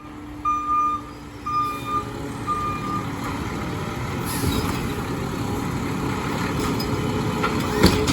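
Garbage truck's reversing beeper sounding three more times, about one beep a second, then stopping as the truck's diesel engine runs up louder. A sharp knock near the end.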